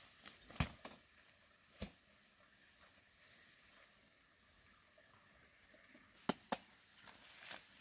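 Insects trilling steadily on a high pitch, one of two trills dropping out about halfway, with four sharp clicks or snaps, the loudest near the start and two close together near the end.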